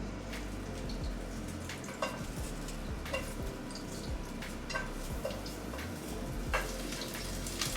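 Knife knocking on a cutting board at an unhurried, irregular pace as an onion is cut.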